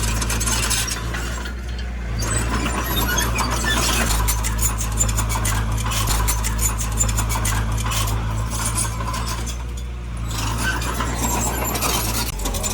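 Heavy diesel earthmoving machine running steadily, with a rapid metallic clinking and clattering over the engine that eases briefly twice.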